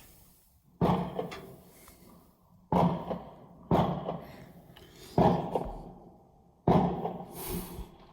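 Fireworks exploding: five sharp bangs at irregular intervals, each dying away over about a second.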